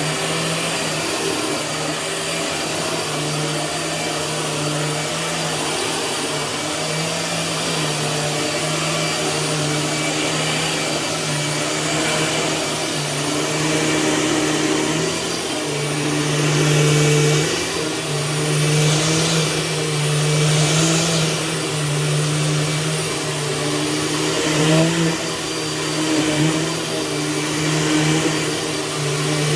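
Dirt Devil vacuum cleaner running continuously while it is worked over a bed, its motor hum wavering in pitch and loudness as it moves.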